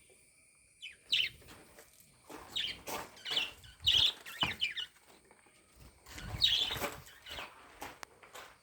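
Budgerigars chirping: short, high, quick calls, scattered at first and then in a busy cluster from about two to five seconds in, with another burst near seven seconds.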